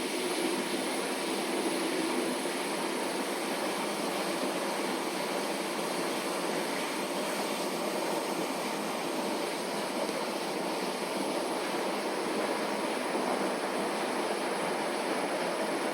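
Large 39 kg commercial laundromat washing machine running, a steady rushing machine noise with no breaks.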